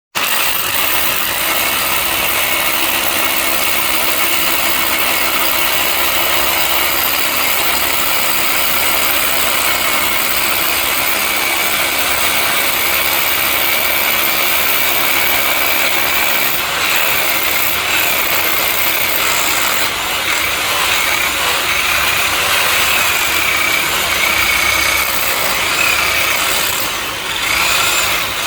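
Power drill running continuously as it bores into concrete. A high whine wavers in pitch through the second half, and the level dips briefly near the end.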